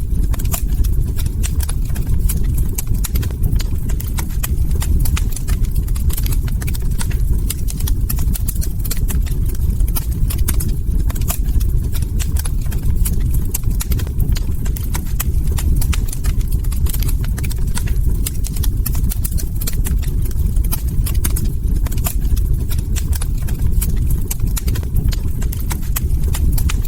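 Log fire crackling: many irregular sharp pops and snaps over a steady low rumble of burning.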